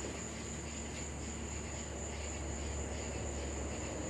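Crickets trilling steadily as one constant high-pitched tone, over a low steady hum.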